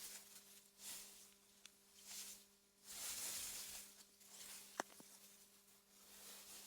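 Faint wind through meadow grass, a soft hiss that swells and fades in gusts, over a steady low hum. A single sharp click about five seconds in.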